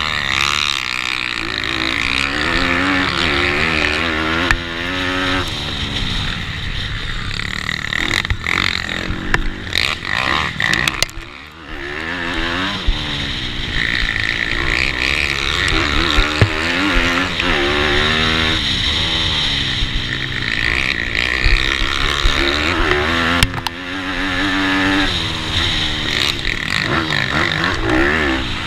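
Racing pitbike's GPcube Lite 160cc engine under hard throttle, revving up and falling back again and again through the corners. The throttle shuts off briefly about twelve seconds in before the engine pulls up again.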